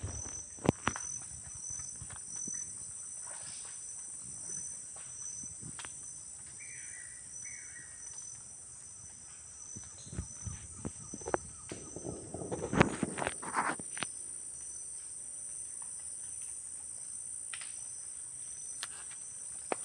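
Steady high-pitched insect chorus: two continuous trills at different pitches. Scattered sharp clicks and knocks throughout, with a burst of rustling about twelve to fourteen seconds in.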